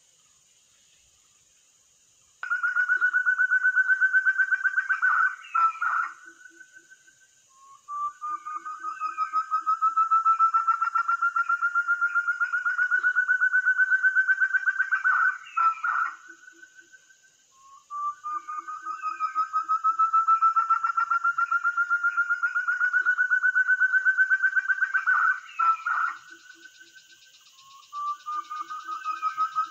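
A wild quail's trilling call, a rapid pulsed trill about three seconds long that rises slightly in pitch, repeated four times at near-even spacing about eight seconds apart. A faint steady high hiss runs beneath it.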